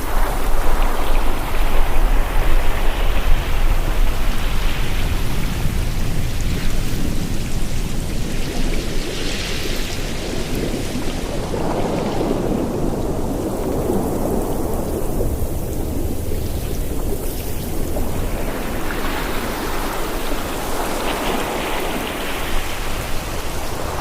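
Ocean waves breaking and washing up the shore, the surf swelling and easing about every ten seconds over a constant low rumble.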